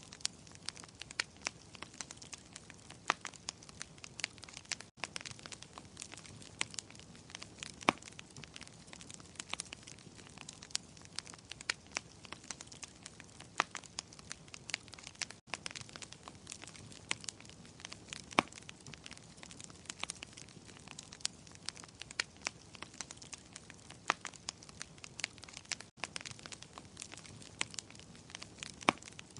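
Wood fire in a fireplace crackling: a soft steady hiss with irregular sharp pops and snaps, a few of them much louder. Three very brief dropouts come about ten seconds apart.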